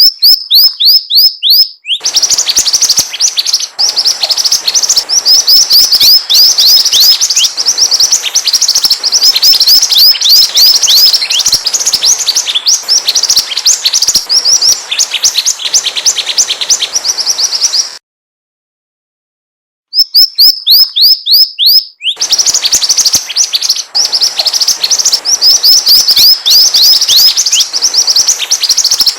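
Mantenan bird song on a looped lure recording: rapid, high chirps, each sliding down in pitch, packed densely together. It stops for about two seconds after some eighteen seconds, then the same sequence starts over.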